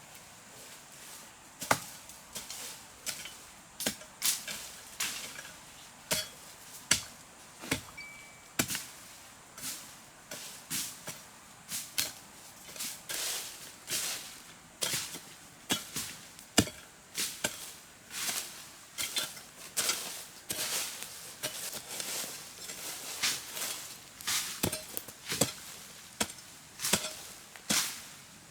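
Hoe repeatedly striking and scraping the earth as the ground is dug and levelled, with sharp, irregular strokes about one or two a second.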